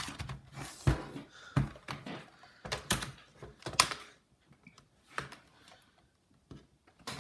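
Irregular clicks and taps of a screwdriver and hard plastic laptop parts being handled while a part of a Dell Inspiron 1545 is screwed back in. The clicks come every half second or so at first and thin out after about four seconds.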